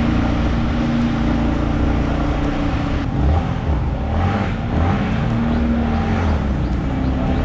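Motorcycle engine running under way, its hum shifting a little in pitch, with wind rumble on the microphone.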